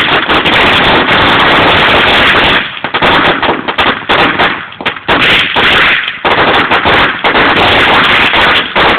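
Fireworks going off in a loud, rapid string of bangs and crackles, close together like a firecracker string, with a few brief lulls.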